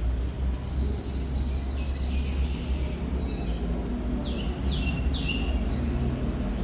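Thrush nightingale singing: a long whistled note that sinks slightly in pitch, then a few short notes and three quick downward-sweeping notes in a row. A steady low rumble runs underneath.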